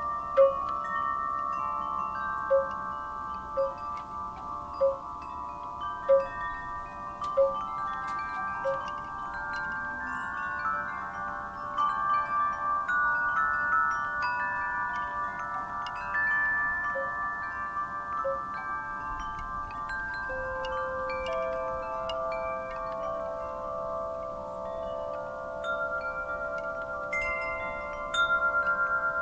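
Wind chimes ringing in a breeze, many overlapping long-ringing notes sounding together. Through the first third a low note is struck over and over, about once a second.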